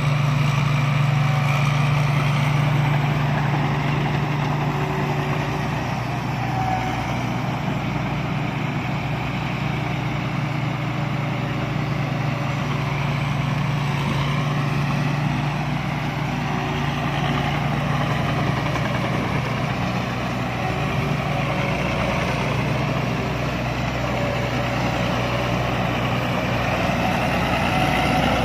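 Rice combine harvester running steadily, a constant low engine hum under a wash of machinery noise.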